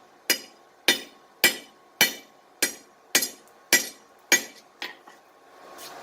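Blacksmith's hammer striking a steel bar on an anvil in a steady forging rhythm: about one blow every 0.6 s, eight strong ones and then a lighter one, each ringing briefly. Near the end a steady rushing noise rises.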